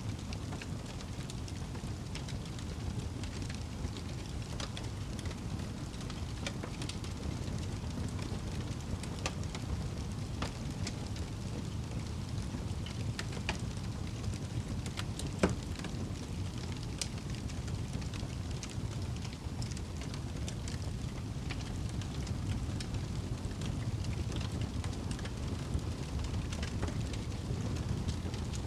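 Wood fire crackling in a fireplace: irregular small pops and snaps over a steady low rumble, with one sharper pop about halfway through.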